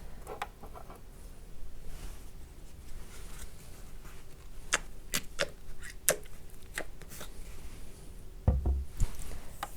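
Close-miked ASMR handling sounds from water-based cleansing on a mannequin: a scattered run of sharp clicks and light taps, then a dull low thump a little past eight seconds.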